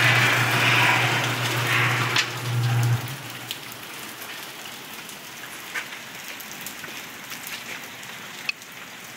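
Rain and hail falling on surfaces, with scattered sharp hits. For the first three seconds it is louder, over a steady low hum; then the hum stops and the sound drops to a softer, even fall of drops.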